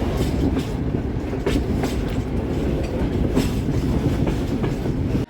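Train running along the track: a steady low rumble of wheels on rails, with the sharp clack of wheels over rail joints every second or so.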